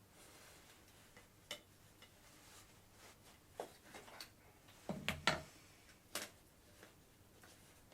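Scattered faint clicks and light knocks at an irregular pace, the loudest few bunched together about five seconds in, with another a second later.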